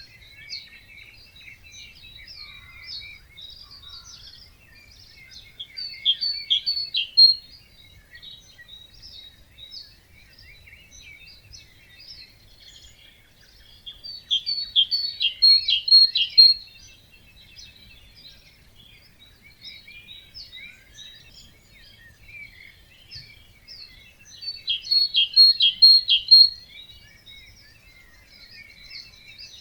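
Birds singing in a wetland: one songbird repeats a loud phrase of quick notes lasting about two seconds, three times about nine seconds apart, while other birds sing more quietly in between.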